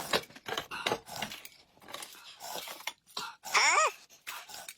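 Dishes and eating utensils clinking and knocking in a string of short clicks. About three and a half seconds in, a short, louder pitched sound glides down in pitch.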